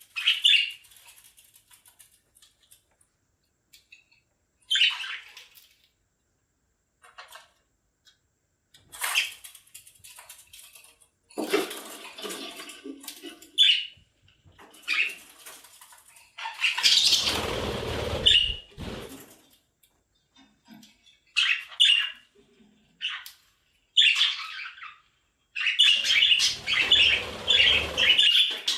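Pet budgerigars chirping and squawking in short, scattered calls, with a longer rustling burst around the middle and a quick, busy run of chirps near the end.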